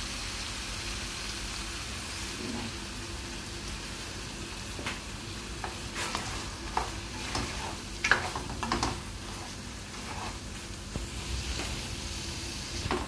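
Boiled mutton tripe sizzling in freshly added oil in a nonstick pot, the water having cooked off, while a spatula stirs it. The spatula knocks and scrapes against the pot several times in the middle.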